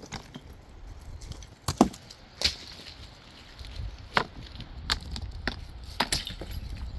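A series of about six sharp knocks, unevenly spaced, over a low steady rumble.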